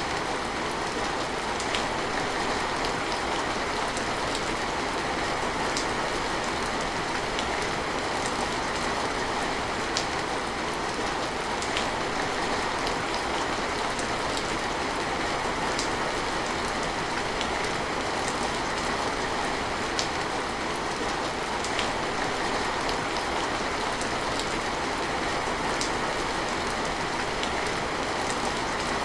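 Steady rain falling, a dense even hiss with sharp single drops or drips standing out every few seconds.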